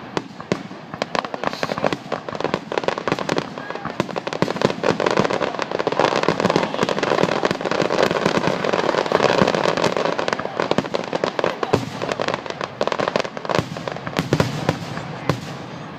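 Fireworks going off in a rapid, unbroken string of pops and crackles. The reports grow densest and loudest in the middle, then thin out a little toward the end.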